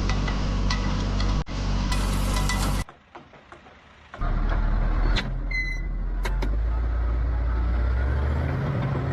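Heavy diesel engines running steadily, cutting off abruptly about three seconds in, then starting up again after a short quiet gap, with a few clicks and a brief high beep just after.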